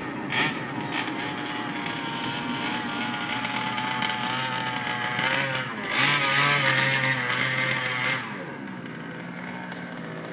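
Two-stroke gasoline engine of a 1/5-scale HPI Baja RC buggy running at speed with a mildly modified motor, its pitch wavering as the throttle changes. It revs up hard about five to six seconds in, stays loudest for a couple of seconds, then backs off to a lower, steadier note just after eight seconds.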